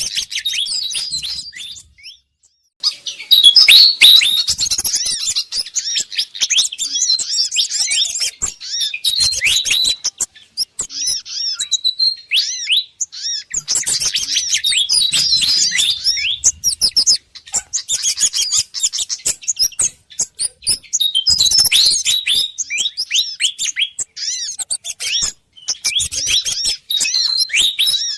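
Bird-lure recording of agitated, noisy calls of Malaysian pied fantails (sikatan kipas) mixed with sogon and kemade bird calls. It is a dense stream of rapid, high, downward-sweeping chirps in bursts, with short breaks now and then.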